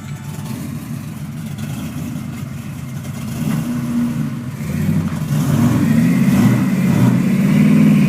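Truck engine revving hard under load while towing a stuck vehicle on a rope. It builds from a steady run to its loudest, wavering revs over the last few seconds.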